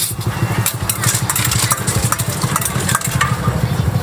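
A small engine idling steadily with a fast, even low throb, with scattered light clicks and clatter over it.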